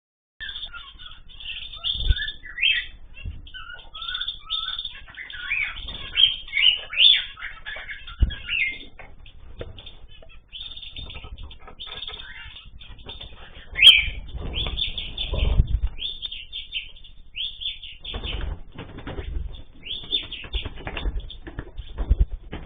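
Cage birds chirping and calling in many short, high notes, with bouts of wing flapping. A sharp click comes about 14 seconds in.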